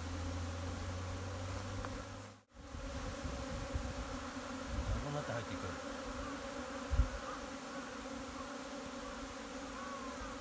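Dense steady buzzing of many Japanese honeybees around a hive entrance during a swarm. The sound cuts out briefly about two and a half seconds in, and a short low thump comes about seven seconds in.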